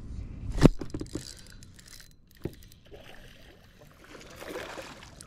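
Gear handled aboard a fishing kayak: one sharp knock against the kayak about half a second in, followed by a few lighter clicks and rattles, another click a couple of seconds later, and a faint watery rustle near the end.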